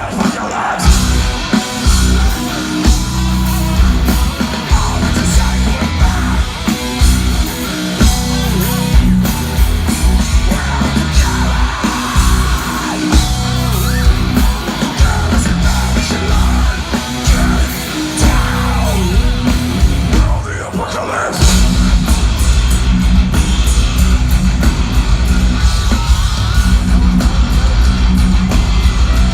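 Heavy metal band playing live at high volume: distorted electric guitars, bass and drums with yelled vocals. The band drops out briefly about two-thirds of the way through, then comes back in heavier.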